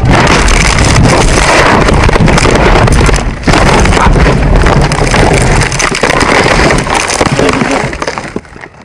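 Loud, rushing wind and road noise buffeting a vehicle-mounted microphone, dying away near the end.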